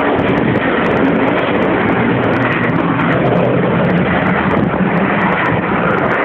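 Eurofighter Typhoon's twin EJ200 jet engines at high power during a display pass: loud, steady jet noise with no breaks.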